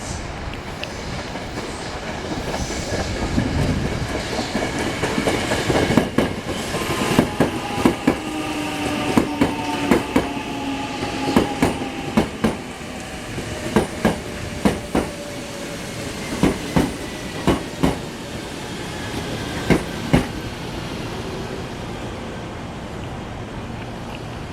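Sanyo Electric Railway electric train passing close by, its wheels clacking in pairs over rail joints as the cars go by, over a running rumble. Its motor whine falls steadily in pitch as the train slows.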